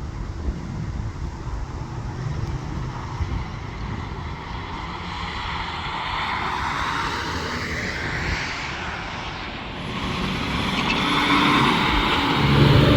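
A road vehicle approaching, its engine and tyre noise swelling and growing loudest near the end.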